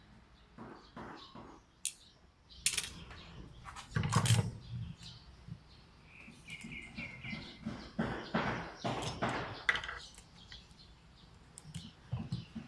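Scattered clicks, taps and scrapes of small metal and plastic airsoft-rifle parts being handled and worked loose during disassembly, with a heavier knock about four seconds in. A short chirping run of high notes sounds about seven seconds in.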